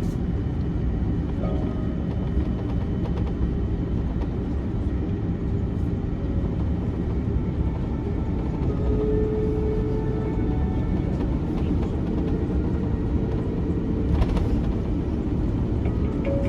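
Cabin noise inside an Airbus A330-300 on the ground after landing: a steady low rumble from the idling engines and the air conditioning.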